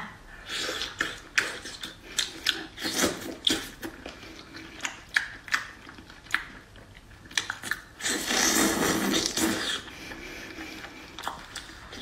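Close-up mouth sounds of biting and chewing cooked seafood pulled off skewers, with scattered short wet clicks. A louder, noisier stretch comes about eight seconds in, as meat is pulled off a skewer with the lips.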